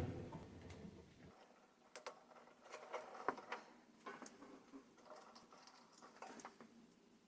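Faint, scattered small clicks and taps of hands handling small parts of a disassembled microwave oven.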